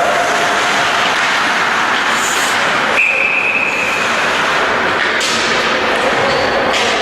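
Steady, loud noise of a team sports game, with a brief high steady tone about three seconds in.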